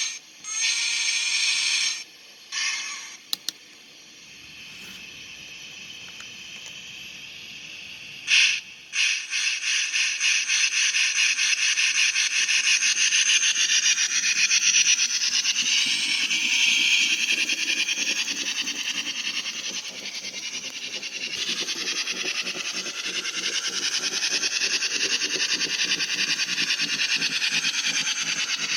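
A model steam locomotive's sound system blows two whistle blasts and a short toot, then hisses quietly at rest. About nine seconds in, it starts chuffing in a fast, steady beat as the train pulls out.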